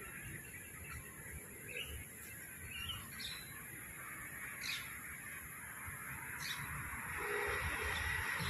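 Birds giving a handful of short, separate chirps, a couple of them quick downward whistles, over steady outdoor background noise.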